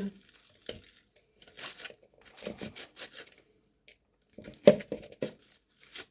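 Cabbage being shaved with a cheese slicer: a series of short, irregular scraping and tearing strokes as the blade cuts shreds off the head of cabbage.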